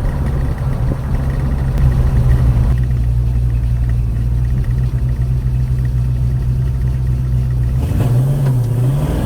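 Chevrolet 307 small-block V8 of a 1956 Bel Air running steadily under way. Near the end the engine note dips and then climbs again.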